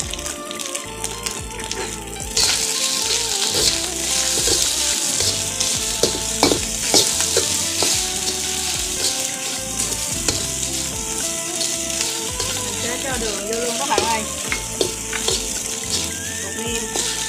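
Cold rice and egg sizzling in a hot oiled wok over a gas burner, while a metal ladle stirs and scrapes against the wok with scattered clinks. The sizzle grows louder about two seconds in.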